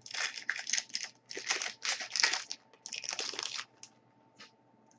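Foil wrapper of a hockey card pack being torn open and crinkled, in a series of rough rustling bursts that stop short of the last second or so, with a faint click after.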